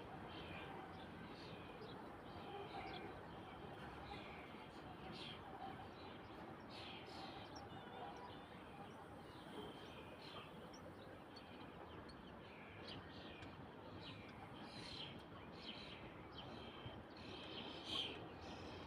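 Faint birds chirping and calling again and again over a steady background hiss, with one louder chirp near the end.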